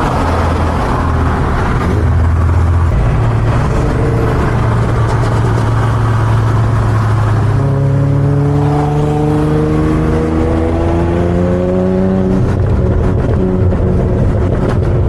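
Twin-turbo Infiniti G37's 3.7-litre V6 running under way, then pulling hard from about eight seconds in, its pitch climbing steadily for about four seconds before breaking off.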